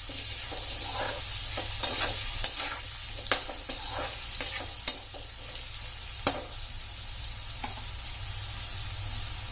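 Potato and capsicum cubes sizzling in oil in a metal kadai while a spatula stirs them, with sharp scrapes and clicks of the spatula against the pan. The clicks stop about two thirds of the way in and the steady sizzle goes on.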